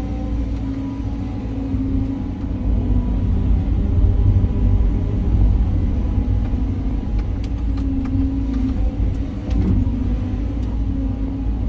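Caterpillar 323 hydraulic excavator running steadily under work, a low engine rumble with a wavering hydraulic drone. A few faint clicks come in the second half.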